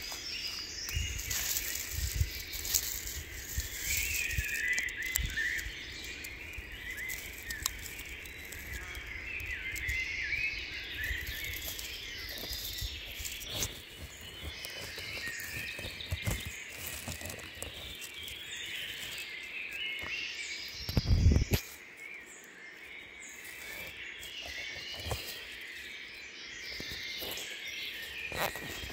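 Small birds chirping and singing continuously, with scattered light clicks and rustles and a brief low thump about two-thirds of the way through.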